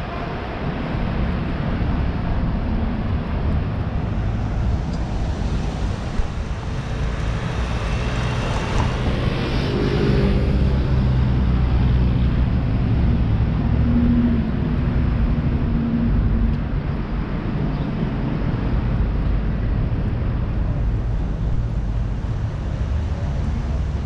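Street traffic: a steady low rumble of passing vehicle engines. It swells about nine to eleven seconds in as a louder vehicle goes by.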